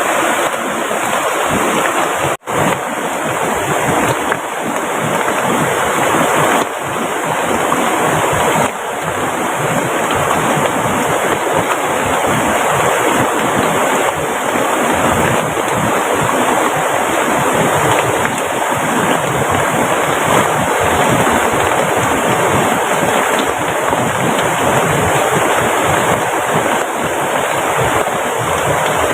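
Heavy tropical downpour together with a rushing, rain-swollen river: a loud, steady wash of water noise. It breaks off for an instant about two seconds in.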